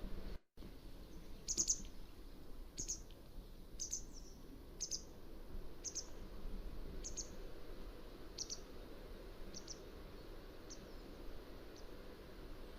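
Mountain wagtail giving a series of short, high, sharp calls, about one a second, growing fainter toward the end. The audio cuts out completely for a moment near the start.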